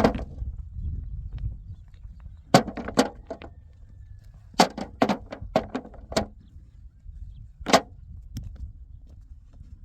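Irregular sharp knocks, about ten of them, some in quick runs, over a steady low wind rumble.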